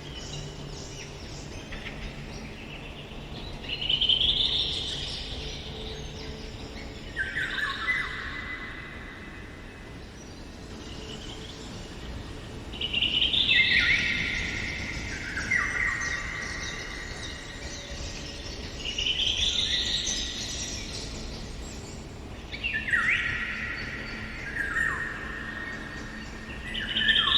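Eurasian golden oriole singing: a song phrase repeated every few seconds, each one rising and then falling in steps, over a faint steady background of other forest sound.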